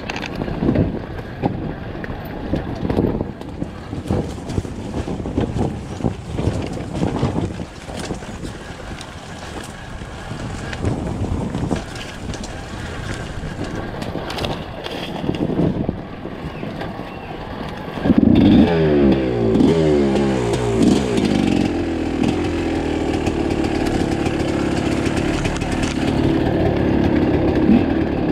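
Two-stroke enduro motorcycle engine under way on a trail, running at low revs with uneven popping for most of the time. About two-thirds of the way through it gets suddenly louder and revs up and down, then holds a steady higher note.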